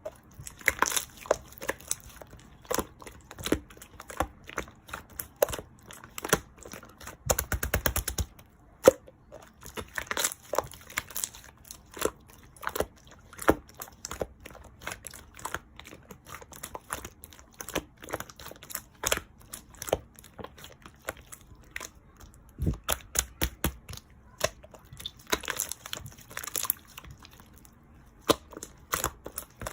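Clear slime being pressed and squeezed by hand, giving irregular sharp pops and clicks, with runs of rapid crackling about seven seconds in and again from about 23 to 27 seconds.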